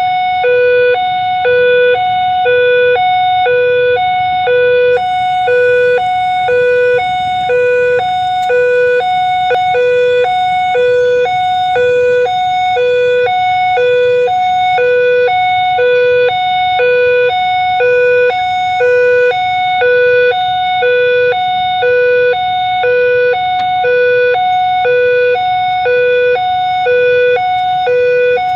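Railway level-crossing warning alarm sounding a steady two-tone hi-lo signal, about one pair of tones a second, warning that a train is approaching the crossing. A low hum of road traffic lies beneath it.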